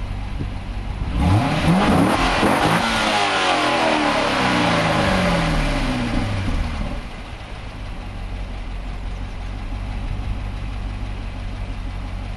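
Corvette C6's 6.2-litre LS3 V8 through its stock exhaust, idling, then revved up sharply about a second in. The revs fall slowly back to a steady idle by about seven seconds in.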